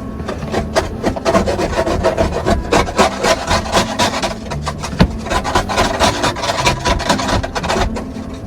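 Rapid, repeated rasping strokes of a scraper across a car's ice-crusted glass, working off hard ice left by freezing rain under the snow.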